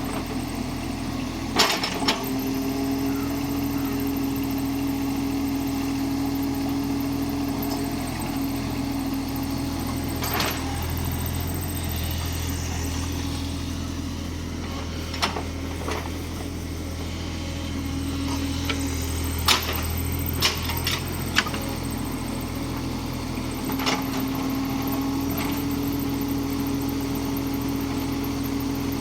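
Kubota mini excavator's diesel engine running steadily, its note strengthening and easing now and then as it works, with about nine sharp knocks scattered through.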